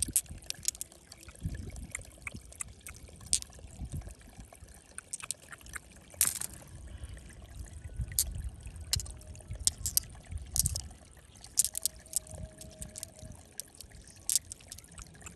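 Water sloshing and trickling, with irregular sharp clicks and knocks throughout and a louder knock about six seconds in.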